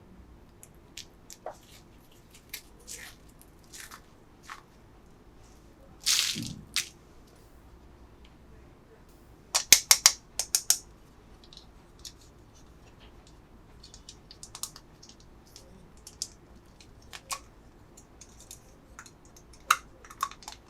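Small plastic packaging and pieces handled close to the microphone: scattered light clicks and taps, a short crinkling rustle about six seconds in, and a quick run of sharp clicks around ten seconds.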